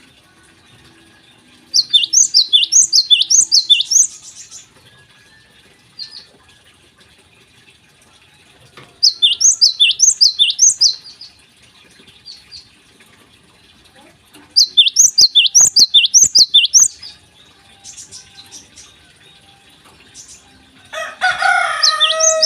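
A Java sparrow (gelatik) singing vigorously: three bursts of rapid, high, falling notes at about five a second, each burst lasting about two seconds, with soft chips between them. Near the end comes a lower, harsher call with several pitched layers.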